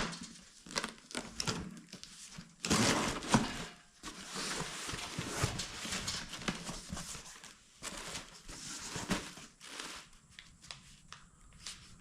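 Packing material crinkling and rustling in irregular bursts as a shipping box is unpacked by hand, loudest about three seconds in.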